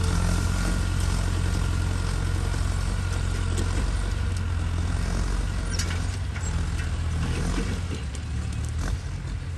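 Ford 660 tractor engine running steadily, growing a little quieter over the last couple of seconds.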